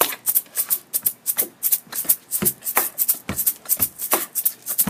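Beatboxed beat: quick hissing hi-hat sounds about four or five a second, with occasional low kick thumps, laying down the rhythm for a freestyle rap.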